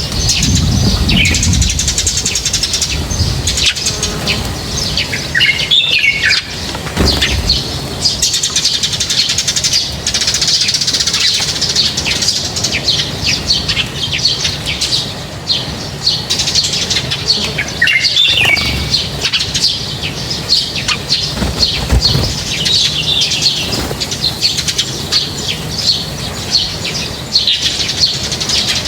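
A flock of small birds chirping continuously, with many overlapping quick high chirps and, twice, a short call sliding down in pitch.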